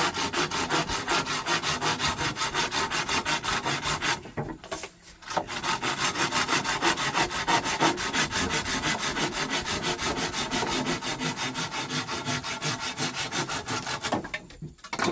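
Hand saw cutting wood in quick, even back-and-forth strokes, with a short pause about four seconds in; the sawing stops near the end.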